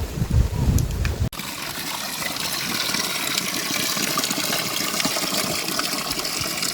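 A low rumble for about a second, then an abrupt cut to a steady, even rush of water.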